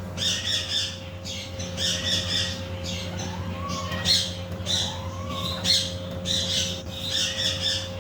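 Macaw parrot squawking in repeated short harsh runs, with two rising-and-falling whistled notes near the middle, over a steady low hum.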